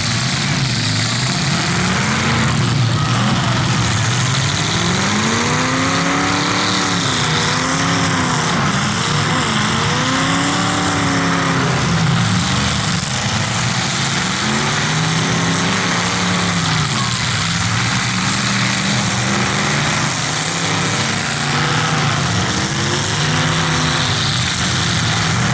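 Several demolition derby cars' engines revving up and falling back again and again, overlapping, over a loud constant engine noise.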